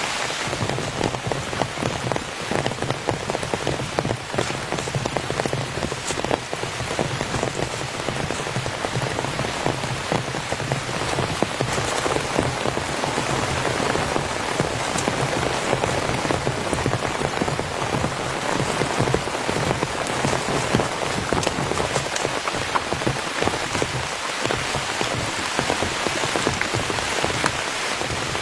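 Heavy rain falling steadily on a tent, a dense, even patter of many separate drop hits.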